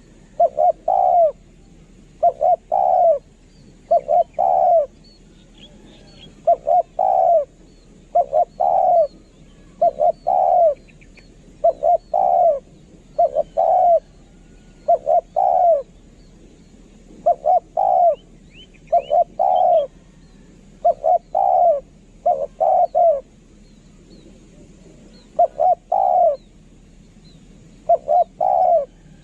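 Spotted dove cooing over and over, each phrase a quick group of low coos, repeated every one and a half to two seconds: the calling used to lure wild spotted doves. Faint chirps of small birds sound behind it.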